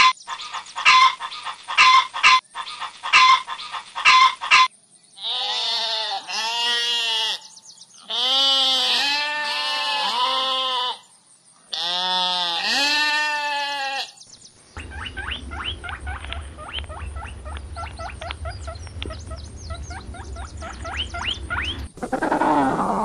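Hens clucking in quick repeated strokes. Then sheep bleat, four long wavering calls, followed by several seconds of fast chattering over a low rumble. Near the end a Magellanic penguin begins its loud, braying call.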